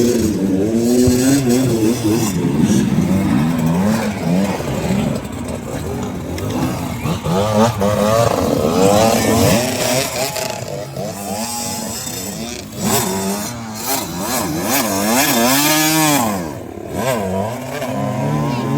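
Several two-stroke motocross bikes racing on the track, their engines revving up and down in quick rising and falling sweeps as they shift and come on and off the throttle.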